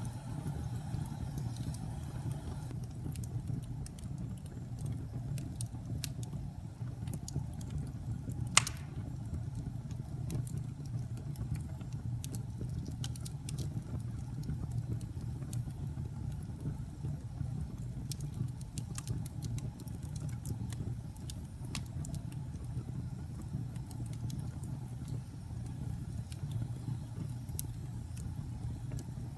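Wood fire burning in a fireplace: a steady low rumble of the flames with scattered crackles, and one loud pop about eight and a half seconds in.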